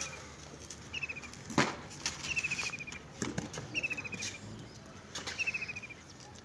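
A small bird repeating a short, rapid, slightly falling trill about every second and a half. A sharp knock comes about one and a half seconds in, with a few fainter clicks around it.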